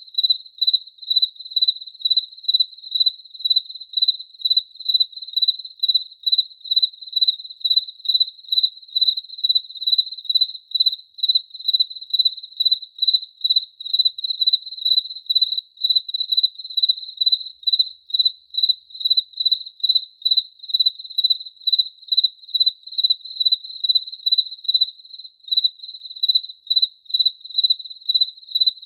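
A cricket chirping steadily, in short even chirps at about three a second on one high pitch.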